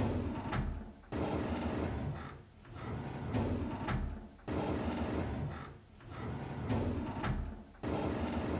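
A drawer sliding open over and over: a scraping, rumbling slide with a sharp click or knock, repeating about every one and a half to two seconds.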